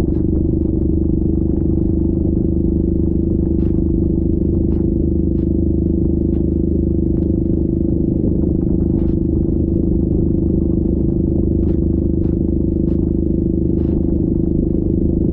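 Yamaha Grizzly 700 ATV's single-cylinder engine running at a steady speed, with scattered sharp clicks and clatters over it.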